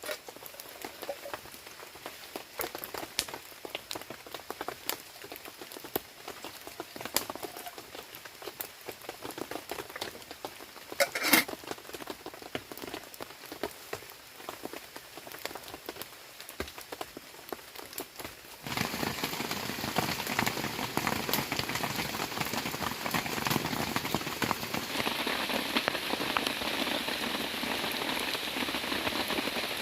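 Rain falling, at first as scattered separate drops with one louder knock near the middle, then about two thirds of the way in changing suddenly to a dense, steady, louder downpour.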